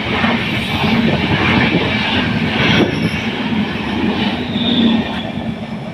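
Passenger train running through a station, a steady loud rumble of wheels on the rails.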